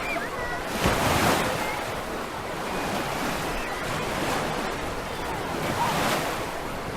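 Black Sea surf breaking and washing on a beach, with a louder wave about a second in and another near the end.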